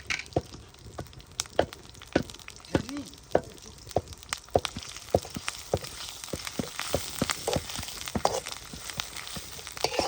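Food cooking in a pot for pumpkin chutney: a sizzling hiss that grows denser about halfway through, with sharp clicks and pops about twice a second.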